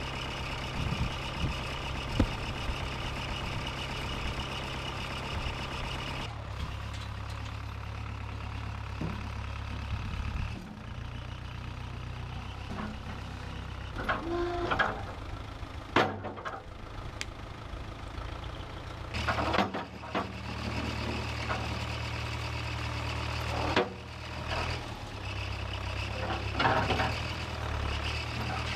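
A 1968 Case backhoe's engine running, its note stepping up and down several times as the load or throttle changes. Several sharp metallic clanks ring out over it, the loudest about halfway through.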